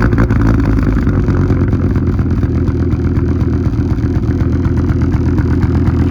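Car engine running steadily at idle, just started after a jump-start.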